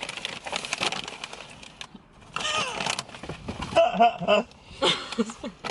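Plastic snack packaging crinkling and rustling as it is handled and torn open, followed by a few short vocal exclamations.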